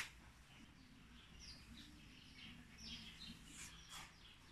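Near silence: a short click right at the start, then faint, scattered high chirps of small birds.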